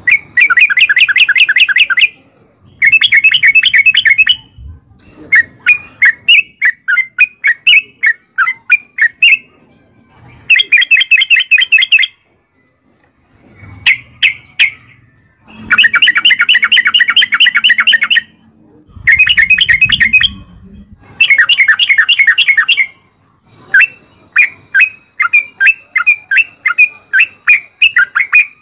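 Yellow-vented bulbul (trucukan) singing in long, rapid, bubbling rolls of quick repeated notes, each run a couple of seconds long. Between the runs come slower strings of separate chirps and brief pauses.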